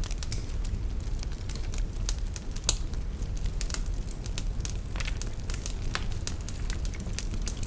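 Wood fire burning in a fireplace: a steady low rumble of flame with frequent irregular sharp crackles and pops, one louder pop near the middle.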